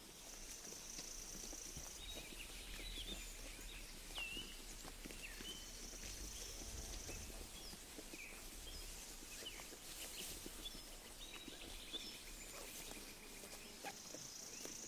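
Sheep grazing close by, tearing and chewing grass in quick crisp clicks, while small birds chirp and trill across the field in short repeated phrases.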